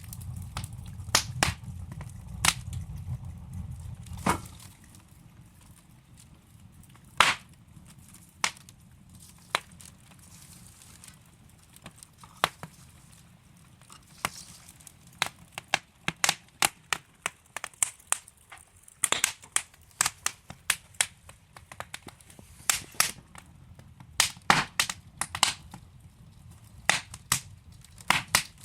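Wood fire crackling in a fireplace: irregular sharp pops and snaps from the burning logs, some loud, over a soft low rumble of the flames that fades about four seconds in.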